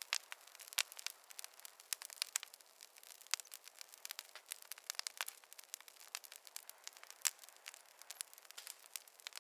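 Campfire burning wood, crackling with frequent irregular sharp pops and snaps over a faint hiss.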